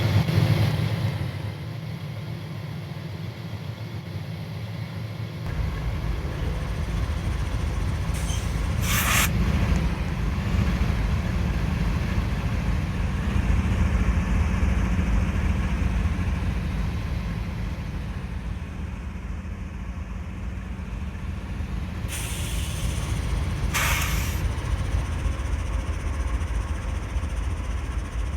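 Norfolk Southern freight train running, with a steady low rumble that grows heavier about five seconds in. Two brief hissing bursts come at about nine seconds and again at about twenty-three seconds.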